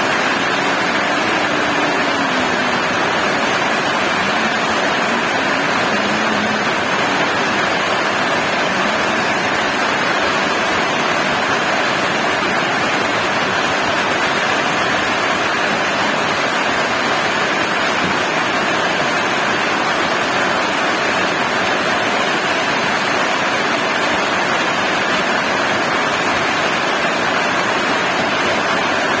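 Heavy rain falling steadily, a loud, even rushing noise that does not let up.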